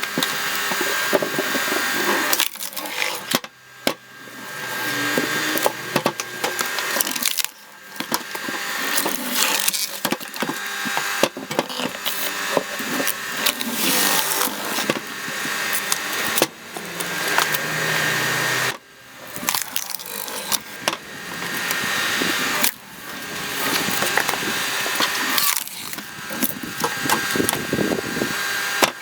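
Firewood logs being split by a screw cone splitter, the wood cracking and splintering as the threaded cone bores in. It comes in stretches of a few seconds, each breaking off suddenly, with a thin steady whine underneath.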